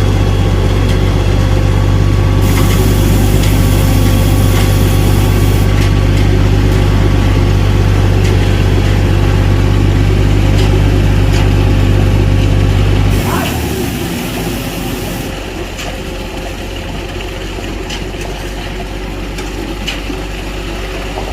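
An engine running steadily with a deep hum, which stops about two-thirds of the way through, leaving a quieter background. There are two short bursts of hiss, one near the start and one just as the engine stops.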